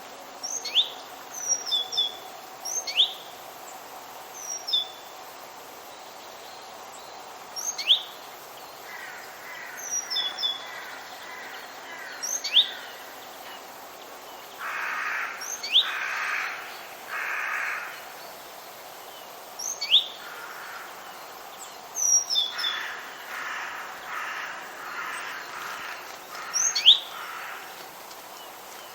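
Wild forest birds calling: short, sharp, high chirps that sweep downward, repeated every couple of seconds. Runs of harsh, rasping calls come about halfway through and again near the end, over a steady background hiss.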